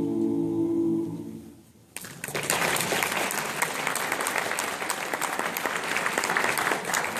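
Music ends on a held chord that fades out, then audience applause breaks out about two seconds in and keeps going.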